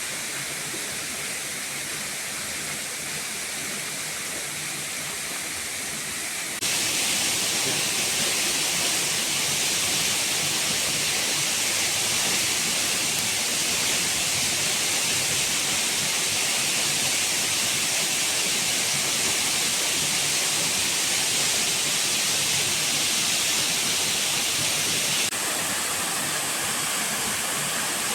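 Steady rush of falling water, an even hiss with most of its strength in the upper range. It jumps abruptly louder about six and a half seconds in and drops a little near the end.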